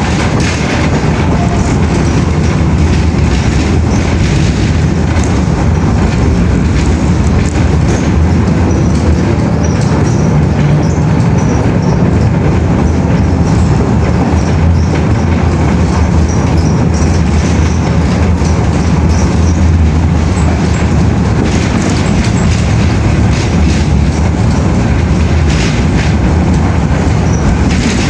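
Train running on rails: a steady, loud rumble with a few faint clicks.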